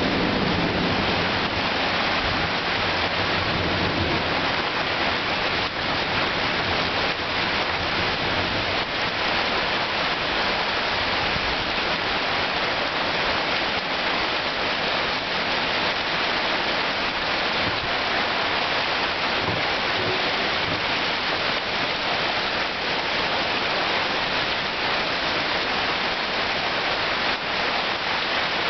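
Heavy thunderstorm downpour: a steady, dense hiss of rain. The tail of a thunder rumble fades out in the first couple of seconds.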